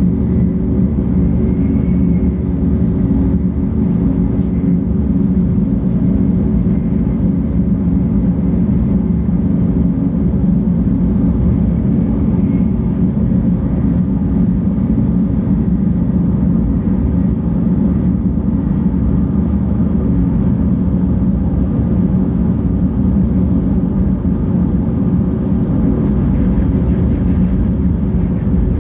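Steady running noise inside the cabin of a 700 series Tokaido Shinkansen train travelling at speed: a constant low rumble with a few faint steady tones.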